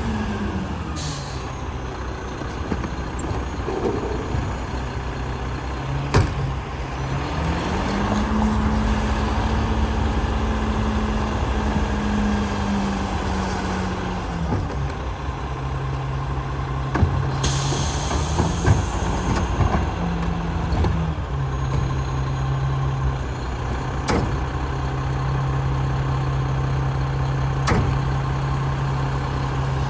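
Diesel engine of a Mack Granite rear-loader garbage truck running; its pitch rises about eight seconds in, holds for several seconds, then drops back and runs steady. Air brakes hiss about a second in and again for a couple of seconds in the second half, with a few sharp knocks in between.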